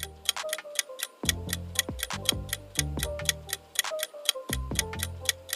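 Countdown-timer sound effect of a clock ticking steadily, several ticks a second, over light background music with low bass notes.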